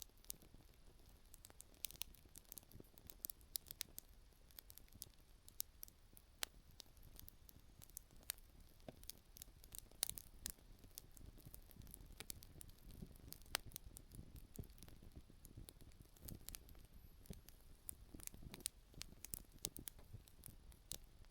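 Wood campfire crackling: irregular sharp pops and snaps of burning firewood, several a second at times, over a faint low rush.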